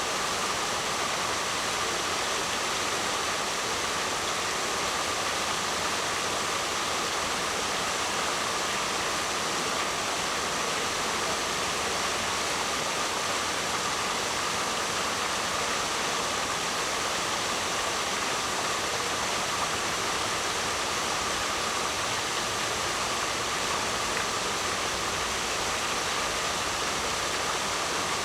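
Waterfall: a steady, even rush of falling water with no breaks or changes in level.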